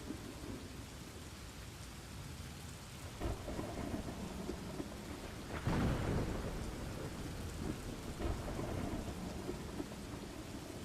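Steady rain with thunder rumbling, a few low rolls swelling over it, the loudest about six seconds in.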